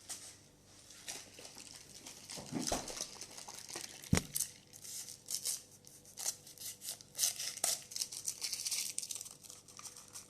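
Crinkling and crackling with many small clicks and one sharp knock about four seconds in: crab shells being cracked and picked apart by hand while eating.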